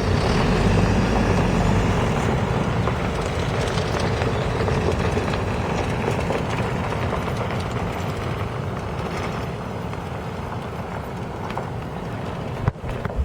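A vehicle driving: steady engine and tyre rumble, slowly getting quieter over the stretch.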